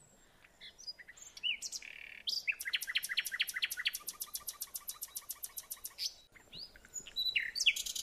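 Birds calling: a few short chirps, then a fast, even run of sharp repeated notes, about eight a second, for three to four seconds, followed by more scattered chirps.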